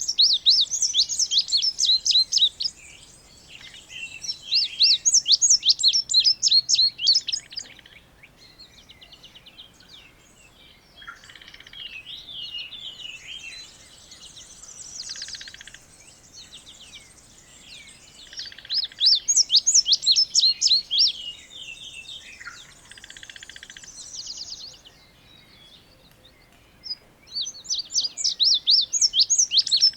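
Indigo bunting singing: four loud phrases of quick, high, sharply sliding notes, each lasting about three seconds, with fainter bird notes in the gaps between them.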